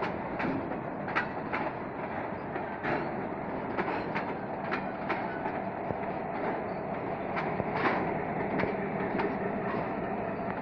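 Freight train of boxcars rolling past at low speed, its wheels clicking irregularly over the rail joints above a steady rumble. In the second half a diesel locomotive passes with a low steady engine hum.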